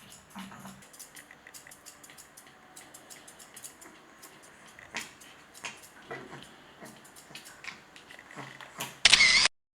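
Faint grooming noises around a small dog: scattered sharp clicks and handling sounds, with the Pomeranian's low breathing noises in the first second. A short, loud burst of sound cuts in about nine seconds in.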